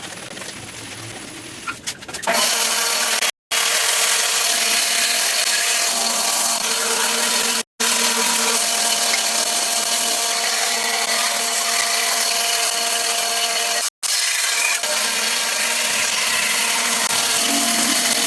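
A power tool running steadily through wood, a loud steady whir, starting about two seconds in. It drops out abruptly for an instant three times.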